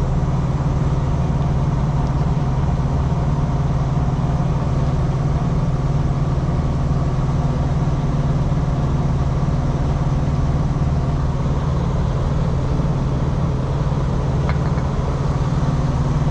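An engine idling steadily, an even low drone that does not change.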